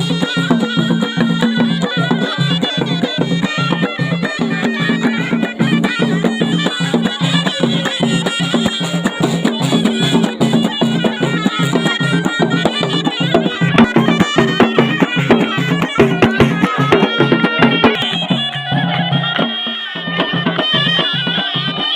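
Ghaita, the North African double-reed shawm, playing a traditional folk melody over a steady drum beat; the drum drops out briefly about eighteen seconds in, then returns.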